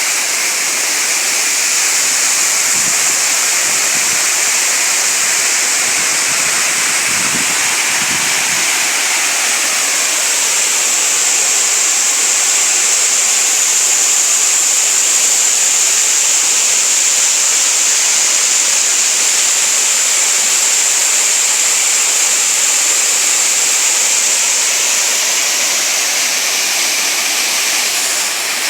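Waterfall: a steady, unbroken rush of water falling and running over rock.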